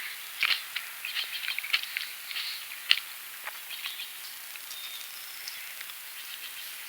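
Birds chirping and singing outdoors: many short chirps and brief trills over a steady high hiss, with a sharp click about three seconds in.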